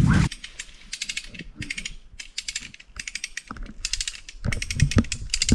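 A hand ratchet worked in short strokes: rapid runs of pawl clicks about twice a second, with a few low knocks near the end.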